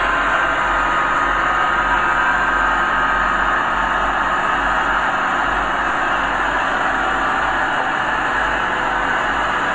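Diesel engine of earthmoving machinery running steadily under a constant load.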